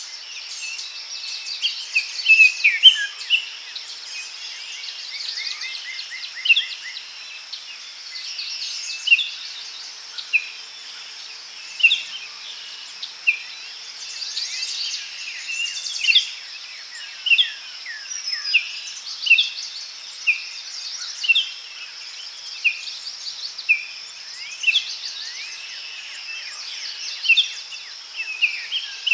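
Daytime forest ambience: songbirds chirping and trilling, short sharp notes every second or two, over a steady high drone of insects.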